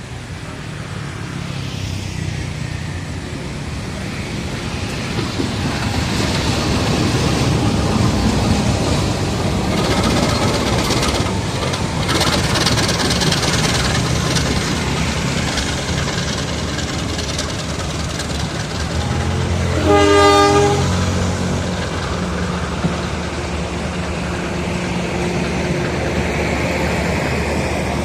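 A diesel-electric train passes: its rumble and wheel clatter build up and stay loud. The locomotive horn sounds once, about a second long, about twenty seconds in, and a low engine hum carries on after.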